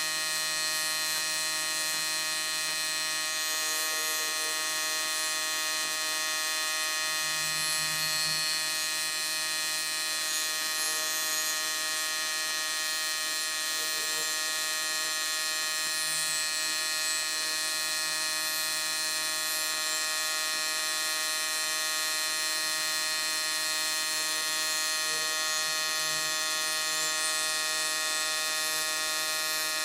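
AC TIG welding arc buzzing steadily on thin 6061 aluminium, the machine set to 150 Hz AC frequency.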